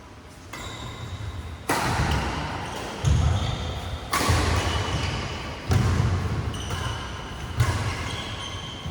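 Badminton rally: rackets hitting the shuttlecock about five times, one strike every one to two seconds, each hit echoing in the hall, with footfalls and short high squeaks from shoes on the court between the hits.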